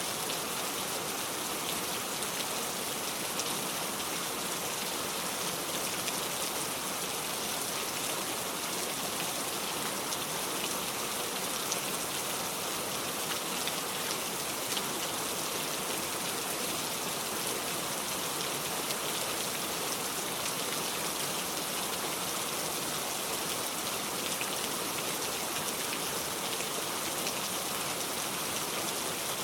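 Heavy rain falling steadily on a metal roof: a dense, even hiss flecked with small drop ticks.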